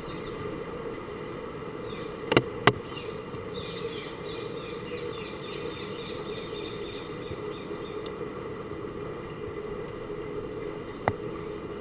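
Steady outdoor background noise with a low hum, and a run of quick, high, repeated chirps, like small birds, in the middle. Two sharp clicks come close together a couple of seconds in, and one more near the end.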